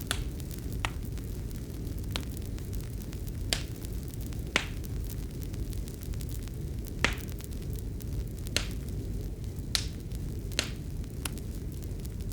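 Fireplace fire crackling: sharp pops at irregular intervals, about ten of them, over a steady low rumble of the burning.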